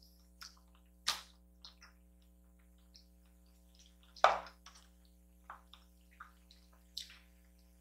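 Close-miked eating: wet chewing and mouth smacks of someone eating noodles and dumplings, heard as scattered short wet clicks, the loudest about four seconds in. A faint steady electrical hum sits underneath.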